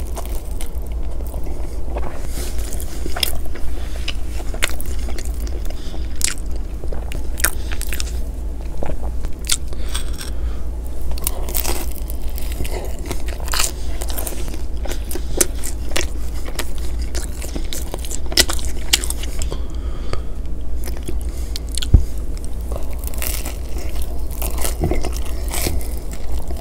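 Close-miked eating of pepperoni pizza: crunchy bites into the crust and wet chewing with many small mouth clicks, over a steady low hum. Late on, one sharp knock, louder than the rest.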